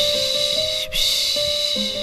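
Rhythmic 'pışşş' shushing hiss for soothing a baby, each shush lasting about a second, with one ending about a second in and the next following at once. A soft lullaby melody of slow, sustained notes plays beneath.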